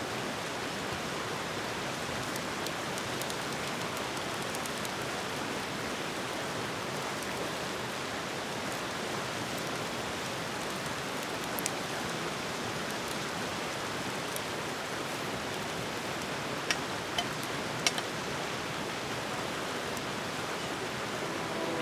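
Campfire burning with a steady hiss, with a few sharp pops, one about midway and three close together near the end.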